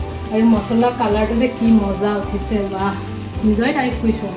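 Masala sizzling in hot oil in an aluminium kadai as it is stirred with a spatula, under background music with a melody.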